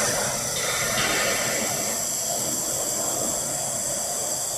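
Handheld laser welding machine welding 6 mm carbon steel: a steady hiss from the weld and its gas flow.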